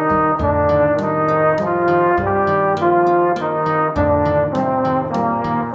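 A B-flat brass instrument playing a slow melody of held notes that move step by step, over an accompaniment with an even beat of short ticks.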